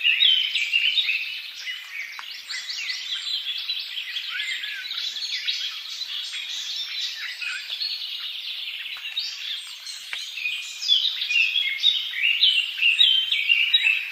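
Many small birds chirping and singing at once: a dense chorus of short, rapid, overlapping chirps, louder at the start and again toward the end.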